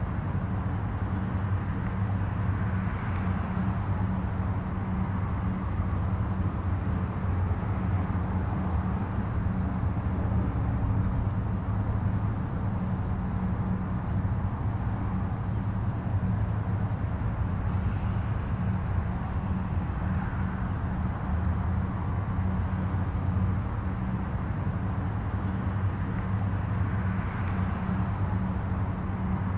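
Distant highway traffic: a steady low rumble of tyres and engines. Soft swells come a few times as louder vehicles pass and fade.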